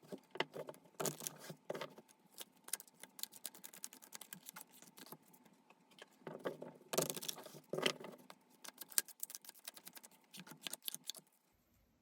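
Tarot cards being shuffled and handled by hand: a quick, irregular run of card flicks and slaps, heavier in two spells, stopping shortly before the end.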